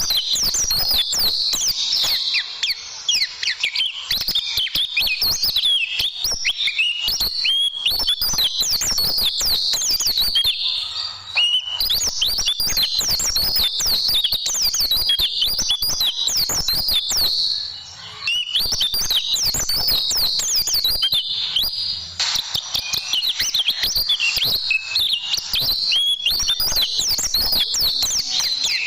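White-eye (pleci) song: a fast, unbroken string of high chirps and short trills, with a couple of brief pauses.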